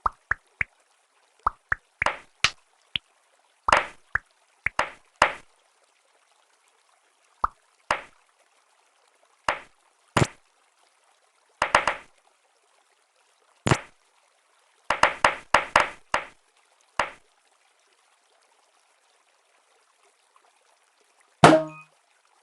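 Diecast toy cars being handled and driven, giving short, sharp clicks and knocks, singly and in quick clusters, with silence between them. Near the end comes a louder click with a brief ringing tone.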